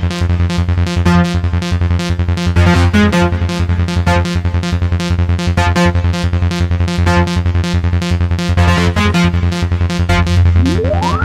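Makina dance track: a fast drum-machine beat under a heavy bass line and synthesizer notes, with a rising synth sweep starting near the end.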